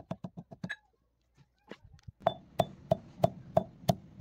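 Rice being pounded for onla, a run of rhythmic hard strikes. The fast strokes, about five a second, stop just under a second in, and after a pause they start again about two seconds in at about three a second.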